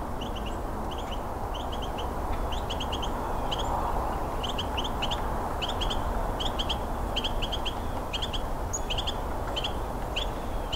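Carolina wren calling: short clusters of two to four sharp notes, repeated about one to two times a second, over a steady low background rumble.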